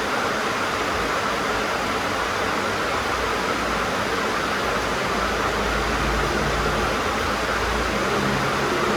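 Steady rain drumming on a sheet-metal tin roof, an even hiss of many drops. A faint low rumble swells in the background in the middle.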